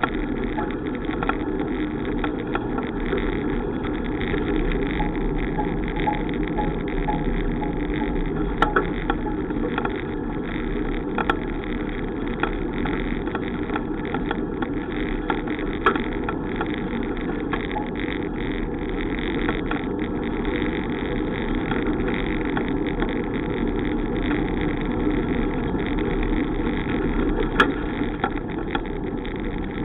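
Steady rushing wind and road noise from riding a bicycle, with a few sharp clicks or knocks scattered through it.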